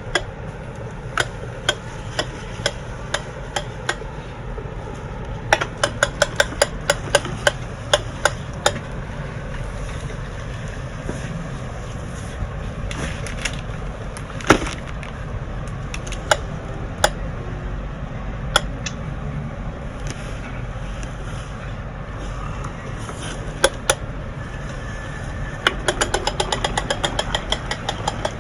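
Friction-powered toy tractor's noise-maker clicking in runs of rapid, evenly spaced clicks as its wheels turn, with single clicks in between, over a steady low rumble.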